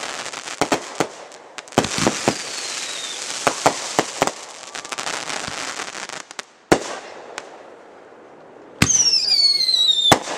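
Consumer firework cakes firing: a rapid run of sharp reports over crackling, with faint whistles falling in pitch. After a lull, a loud whistle falls in pitch for about a second and ends in a sharp bang near the end.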